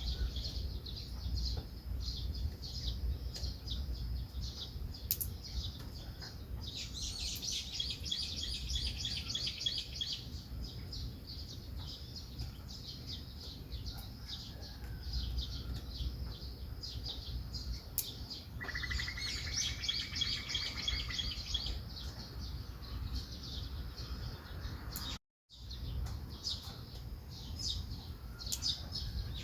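Small songbirds chirping and twittering continually, with two spells of rapid trilling, one a clear whistled trill. A steady low rumble runs underneath, and the sound cuts out for a split second near the end.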